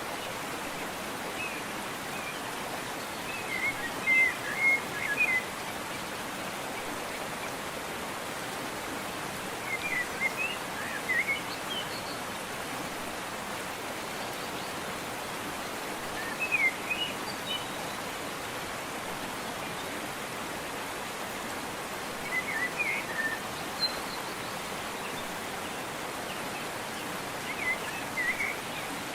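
Waterfall or stream water rushing steadily, with a songbird singing short chirping phrases about every five or six seconds.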